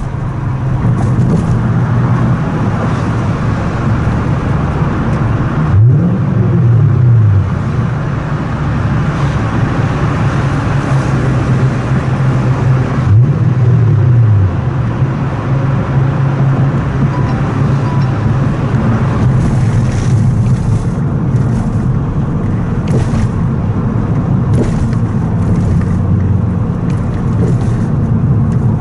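Toyota Crown Majesta (S180) V8 with a full straight-through exhaust, running at a steady cruise with a deep, loud exhaust drone. Twice the engine note rises briefly and falls back.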